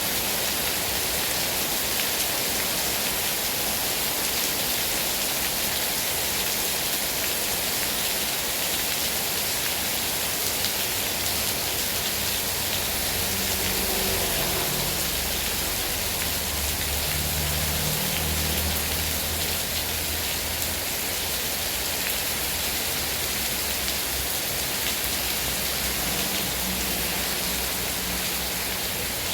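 Heavy rain falling steadily, a dense even hiss of drops on surfaces. A low rumble comes in for several seconds about halfway through.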